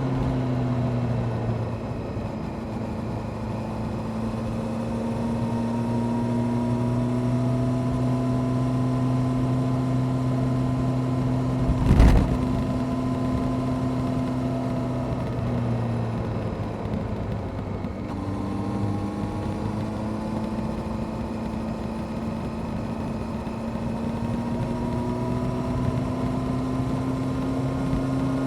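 Honda CBR600F Sport's inline-four engine with a Delkevic aftermarket exhaust, heard from the bike while riding. The note climbs slowly under acceleration, drops away for a few seconds past the middle as the rider rolls off, then rises again. There is a brief thump about twelve seconds in.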